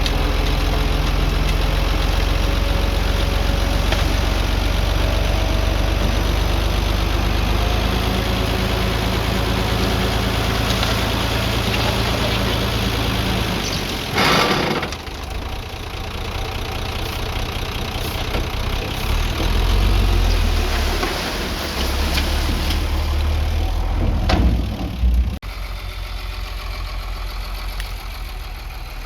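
Heavy earthmoving machine's engine running steadily. About halfway through comes a loud rushing noise lasting about a second, after which the engine rises and falls. Near the end comes another loud burst, then the sound drops off suddenly.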